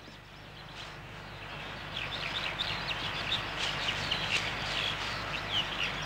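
Small birds chirping in quick, short calls over a steady hiss. The chirping comes in about two seconds in.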